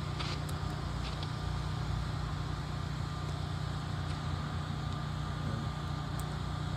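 Ice cream truck's engine idling steadily while parked, a constant low hum.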